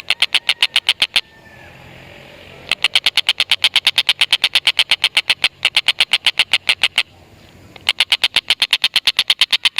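Tengkek buto kingfisher giving its long chattering 'ngekek' call: fast runs of sharp, evenly spaced 'kek' notes, about eight a second, broken by short pauses near the start, about seven seconds in, and briefly in the middle.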